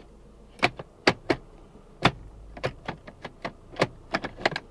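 About a dozen sharp, irregular clicks and knocks, some in quick pairs, from the gear selector and handbrake of a 2004 Subaru Liberty being handled inside its cabin.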